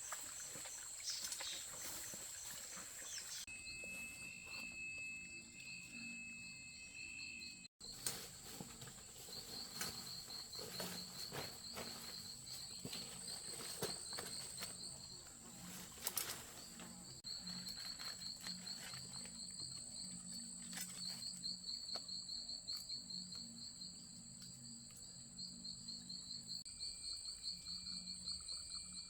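Insects calling outdoors: a steady high-pitched buzz with rapid pulsing chirps layered over it, and a low pulsing sound beneath. Scattered sharp clicks and knocks come through at intervals.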